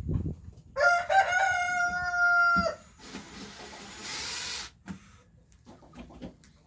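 A rooster crows once: a single long call of nearly two seconds, held at a steady pitch, that cuts off suddenly. A short hiss-like noise follows.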